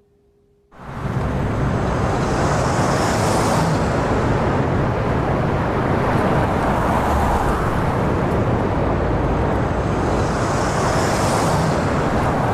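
Road traffic noise: a steady rush of tyres and engines that starts abruptly about a second in, swelling briefly twice as vehicles pass.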